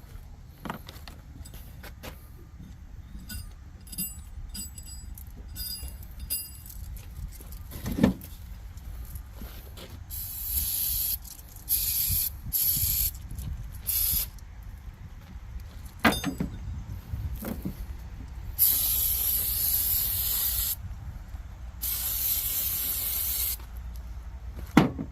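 Spray hissing in six bursts, the last two about two seconds long, while a truck air compressor is cleaned. Light metal clinks and a few sharp knocks come in between.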